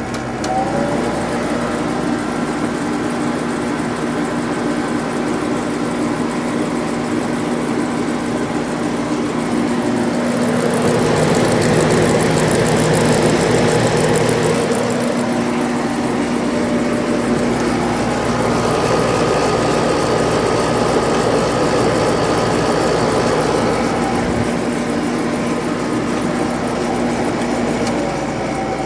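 Sharp window air conditioner running with its compressor and fan on: a steady hum under fan air noise, a little louder for a few seconds near the middle.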